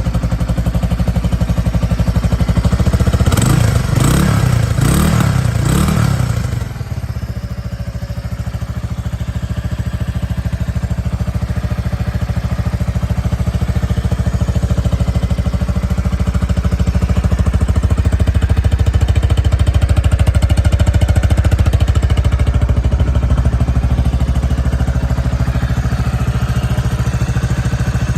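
Kawasaki Estrella 250's air-cooled single-cylinder four-stroke engine running, revved three times in quick succession a few seconds in, then settling back to a steady idle.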